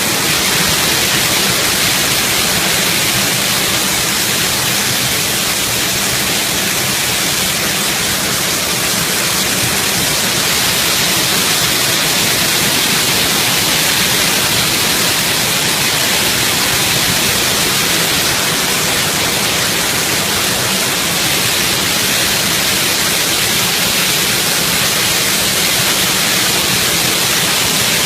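Nabegataki waterfall: a loud, steady rush of falling water with no breaks.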